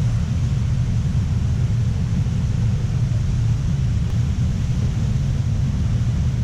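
Steady low rumbling noise with a fainter hiss above it, unchanging throughout.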